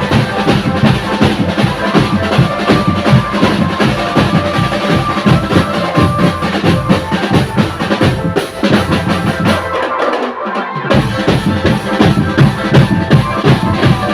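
Drum band music with a dense, fast beat of bass drum and snare. The low end drops out briefly about ten seconds in.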